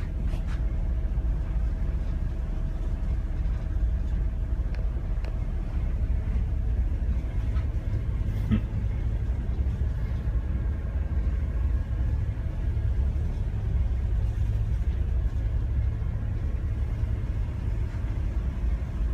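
Steady low rumble of a river towboat's engines running, with a faint steady hum above it.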